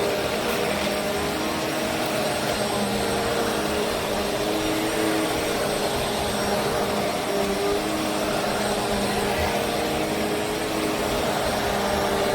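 Bissell CleanView Swivel Pet upright vacuum cleaner running steadily, with a wavering motor hum under the rushing suction noise.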